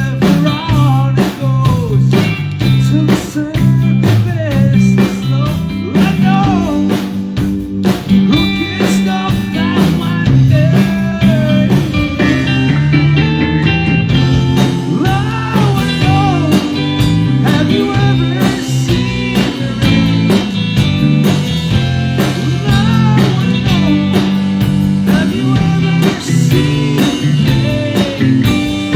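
Live band playing a blues-rock number: a guitar line over bass and drums with a steady beat.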